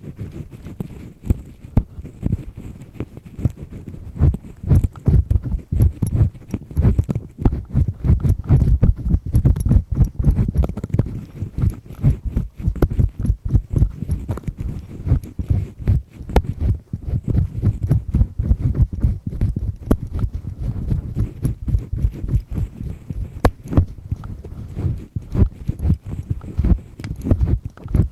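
Double-disc earpick scraping firmly inside an ear, close-miked: a dense, continuous run of rapid scratchy clicks and rubs.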